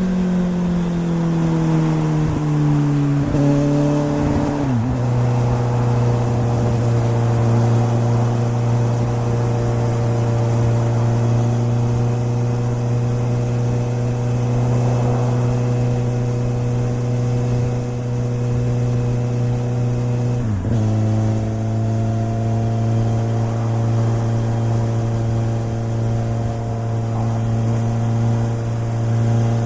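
2013 Suzuki GSR750's inline-four engine running through an aftermarket Yoshimura exhaust while riding. The note falls over the first few seconds as the bike slows, then holds a steady cruise, with a brief break in the note about five seconds in and again about twenty seconds in.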